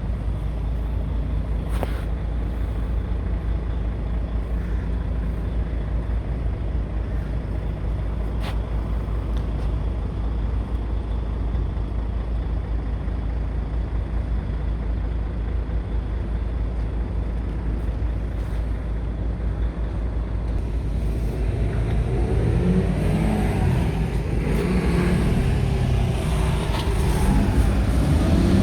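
Scania R tractor unit's diesel engine idling steadily, then revved up and down repeatedly over the last several seconds. Two short sharp clicks come early on.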